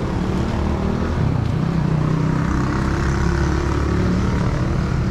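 A motor vehicle's engine running close by on the road, a steady low hum that swells through the middle.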